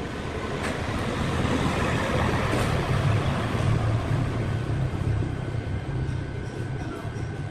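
Sawmill machinery running with a steady low rumble and a noisy hiss over it, growing louder about three seconds in and easing off near the end.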